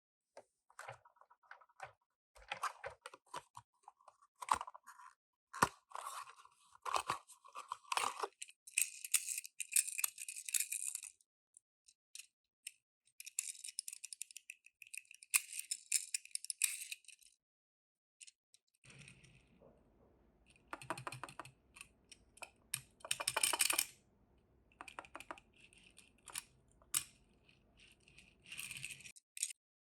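Toy car packaging being handled and opened: a run of small clicks and taps, then long stretches of crinkling and tearing of plastic and card, with more crinkling and clicks near the end.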